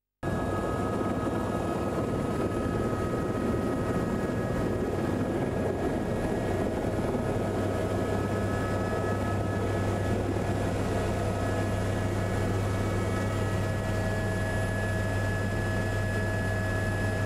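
An engine running steadily: a constant drone with a few held tones over it, its low hum growing stronger about halfway through.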